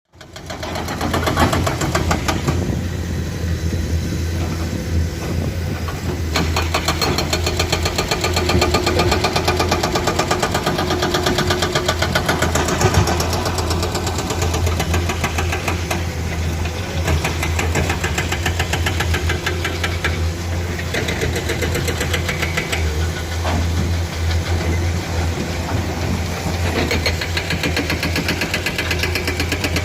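Heavy diesel engine of an excavator running steadily with a fast, even firing beat, fading in over the first second or so.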